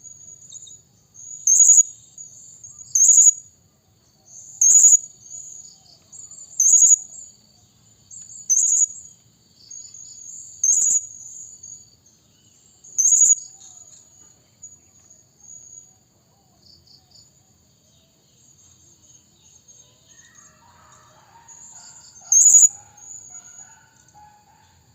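Blue-crowned hanging parrot (serindit) giving short, high, shrill calls, about one every two seconds, with softer twittering between them. After a quieter stretch of several seconds, one more loud call comes near the end. This is a serindit lure call, of the kind played to draw in and provoke wild serindits.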